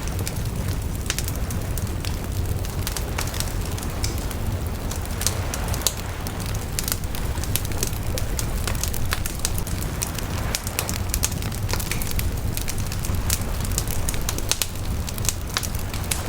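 Bonfire crackling: frequent sharp pops and snaps, irregular and scattered throughout, over a steady low rumble.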